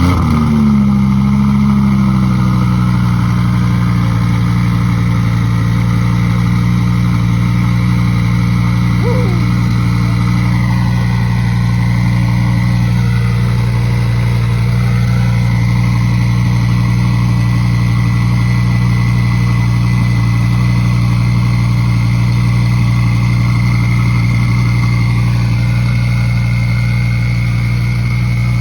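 Audi R8 Spyder engine with a Weistec twin-turbo kit idling steadily just after starting, its idle speed settling down over the first couple of seconds.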